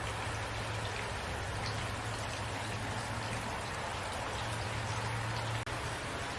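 Steady rainfall, an even hiss of drops pattering on surfaces, with a low steady hum underneath. It cuts out for an instant about five and a half seconds in.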